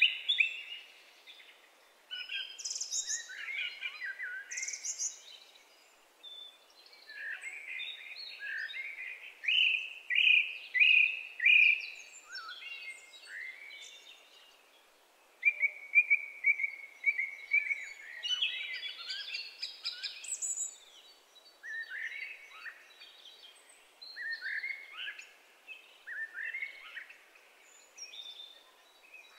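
Songbirds singing: varied chirps and whistled phrases from more than one bird, with short pauses between phrases. About ten seconds in comes a run of loud repeated notes.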